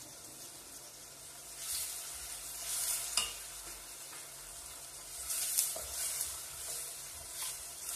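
Chopped onions sizzling in olive oil in a stainless steel pot while a spoon stirs them, with a few louder scraping swells as the spoon drags across the pot.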